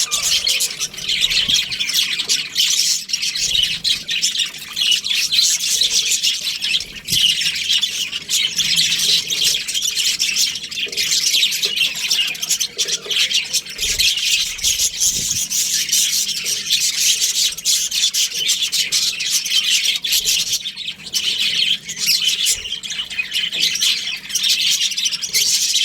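Budgerigars chirping and chattering continuously, many rapid overlapping high chirps and squawks.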